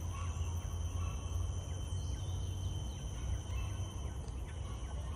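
Outdoor garden ambience: a steady high-pitched hum and a few faint bird chirps over a constant low rumble.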